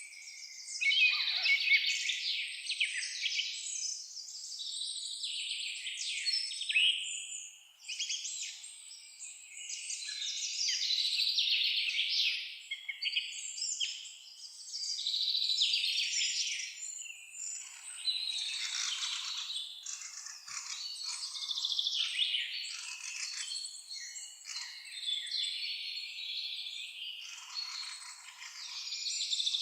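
Many songbirds singing and chirping at once: a dense chorus of overlapping high-pitched songs that never breaks.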